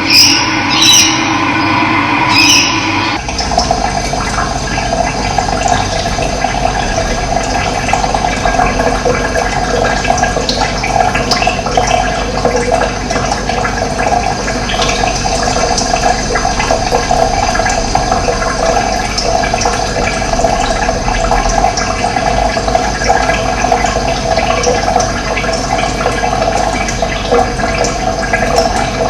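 Running water rushing steadily. About three seconds in the recording changes abruptly, then holds one even sound.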